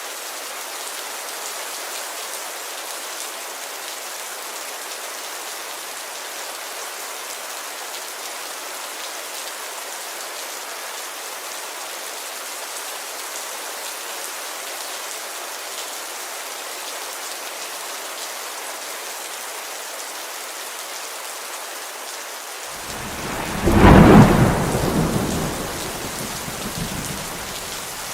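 Steady rain falling on a window glass, with one loud clap of thunder near the end that rumbles and fades over a few seconds.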